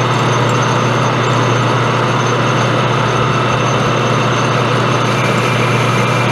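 Metal lathe running steadily, a constant motor hum with even machine noise above it and no cutting change.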